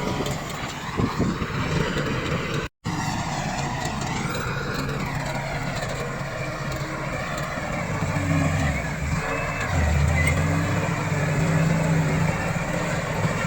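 Komatsu D68 bulldozer's diesel engine running under load while the machine works soil, growing louder from about eight seconds in. The sound cuts out for a split second near three seconds in.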